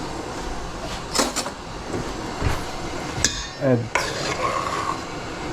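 Metal kitchenware clattering: about four sharp knocks and clinks of utensils against a pot, over a steady background hiss.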